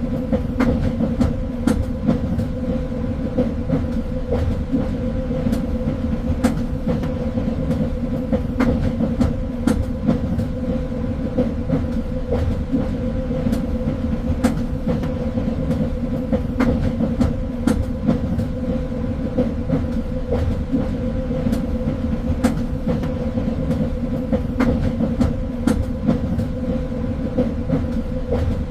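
Train running steadily on the rails: a continuous low rumble with a steady hum, and frequent short, sharp clicks of the wheels over the track.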